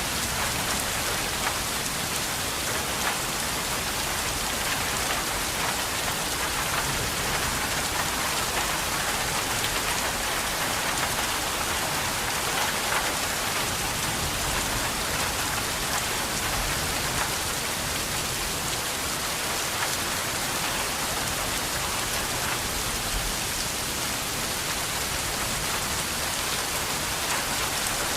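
Steady rain falling and pattering on a surface, a dense even hiss with many small drop ticks.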